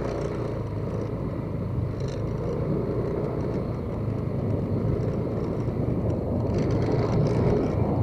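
Motorcycle underway with its engine running steadily alongside road noise.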